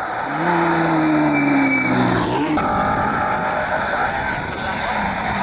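Rally car engine at high revs as the car passes at speed. Its note slides slowly down, then drops sharply about halfway through, leaving loud engine and tyre noise.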